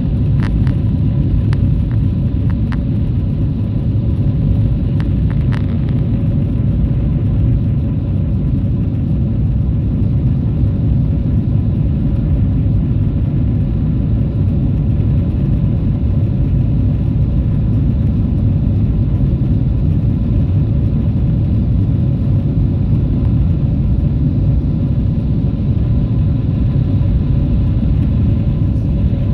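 Boeing 777-300ER's GE90 engines at high power during takeoff: a steady, deep rumble with a faint steady hum on top, and a few light knocks in the first six seconds.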